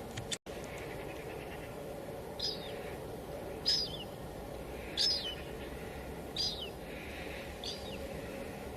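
Steady hiss of light drizzle. From about two and a half seconds in, a bird repeats a short call that falls in pitch, about once every second and a half. The sound drops out for an instant just under half a second in.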